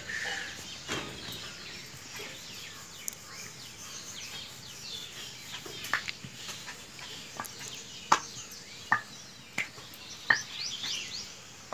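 Birds chirping and twittering, with several short sharp clicks in the second half.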